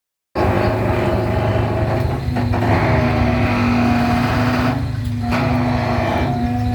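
Caterpillar excavator's diesel engine running steadily under digging load, with a steady hum over the engine and a couple of brief knocks.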